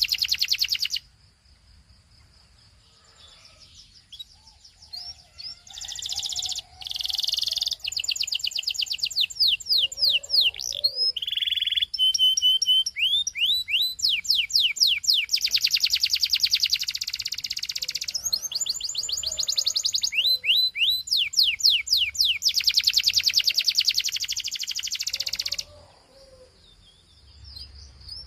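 Belgian canary singing: fast rolling trills of quickly repeated down-sweeping notes, with a brief steady whistled note in the middle. The song pauses for a few seconds near the start and again near the end.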